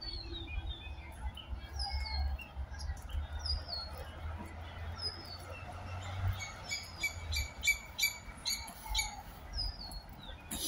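Songbirds calling in park trees: a short, high, downward-sliding whistle repeated every second or so, joined about two-thirds of the way in by a quick run of sharp chirps, about three a second, with a low rumble underneath.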